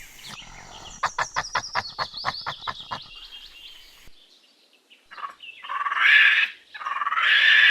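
A bird's rapid chirping trill for about two seconds, then, after a short lull, a few long breathy snorts from a rhinoceros.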